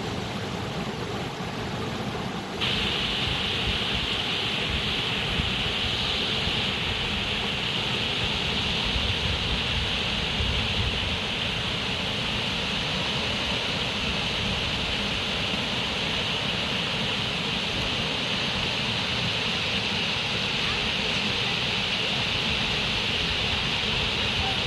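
Flowing water rushing steadily. About two and a half seconds in it abruptly becomes louder and hissier, then stays even.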